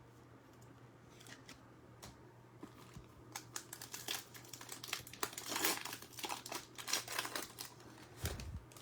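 Crinkling and rustling of a trading-card pack's wrapper as it is handled and opened, quiet at first, then busier crackling from about three and a half seconds in.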